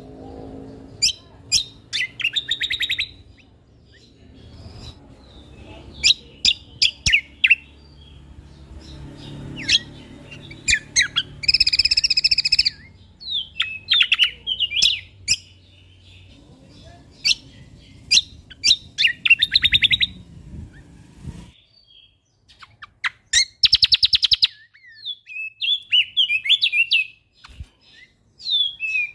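Kecial kombok (cucak kombo) songbird singing in rapid bursts of sharp chirps and trills, with a held buzzy note about twelve seconds in and again near twenty-four seconds. A faint low background rumble stops a little past the middle.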